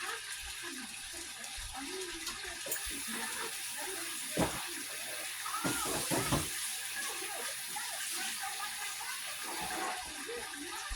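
Ribeye steaks sizzling steadily in a hot pan as they sear, with a couple of soft knocks midway.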